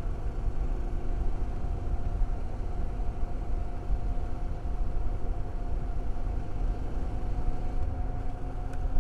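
Honda Transalp XL650's V-twin engine running at a steady speed while riding, with a dense low rumble of wind and road noise on the microphone.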